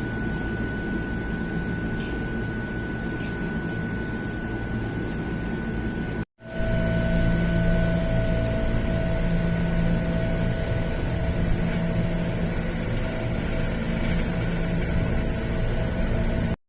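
Steady hum and rumble of a train, with a faint high whine. The sound breaks off for an instant about six seconds in, then comes back louder with a lower steady whine.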